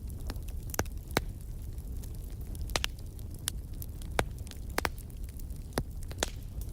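Campfire crackling: irregular sharp pops and snaps, roughly one a second, over a steady low rumble.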